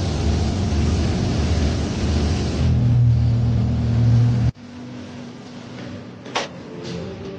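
A Porsche Panamera's engine running with a loud, rumbling sound, settling into a steady drone, then stopping abruptly about four and a half seconds in. Two short whooshes follow near the end.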